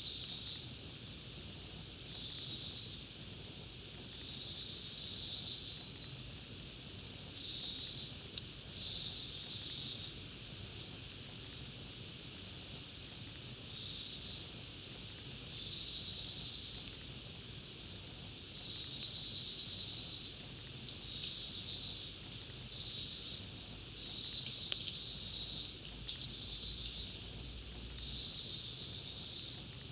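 Campfire crackling with scattered small pops over a steady high hiss. A short, high, buzzy trill repeats every second or two.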